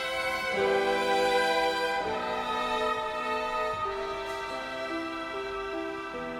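Violin ensemble playing slow, sustained chords of the hymn's closing bars, gradually dying away.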